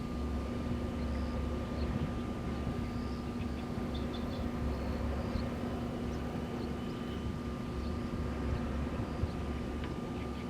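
Wind blowing steadily at a row of wind turbines: an even rush with a low rumble and a constant hum, and a few faint high chirps.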